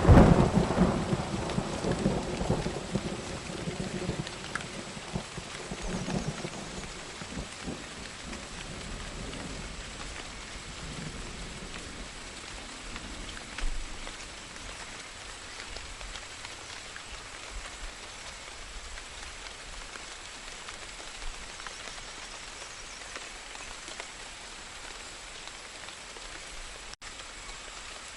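Thunder rumbling away after a loud clap, fading out over the first six or seven seconds, over steady rain falling.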